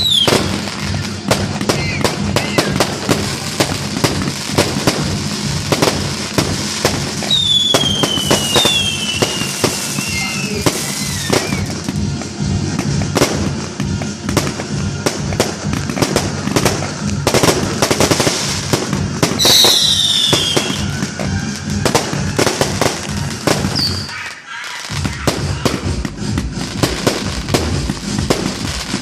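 Fireworks display: a dense run of sharp bangs and crackling bursts, with whistling shells gliding down in pitch about 8 seconds in and again about 20 seconds in.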